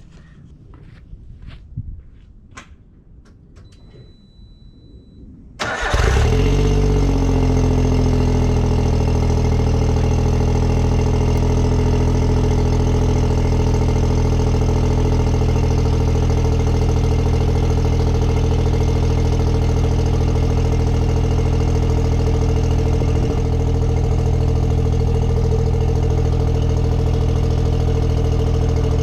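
Autozam AZ-1's 657 cc turbocharged three-cylinder engine, with a straight downpipe and no catalytic converter, cranks and catches about six seconds in on a cold start. Its pitch settles within a second or two into a steady, loud cold idle. Before the start there are only a few faint clicks.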